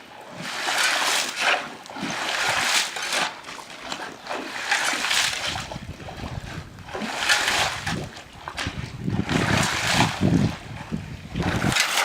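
Water and wet mud splashing in repeated scoops, about one every two seconds, at a damaged water pipe being dug out for repair.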